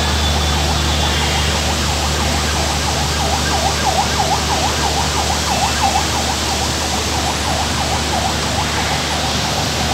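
Heavy rain pouring steadily over city rooftops and trees. From about three seconds in, a quick warbling tone rises and falls several times a second, faint beside the rain.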